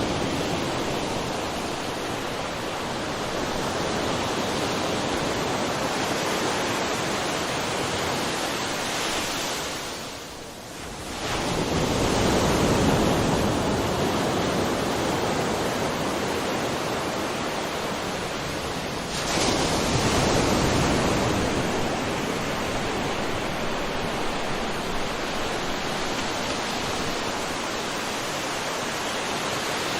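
Sea waves on the shore: a steady rush of surf that drops away briefly about ten seconds in, then swells as a wave comes in, with another swell about twenty seconds in.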